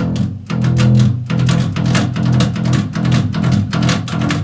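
Bass guitar playing a fast metal riff of short, muted, percussive sixteenth-note plucks on low notes, grouped in 'taka-tak' bundles of three with brief rests between.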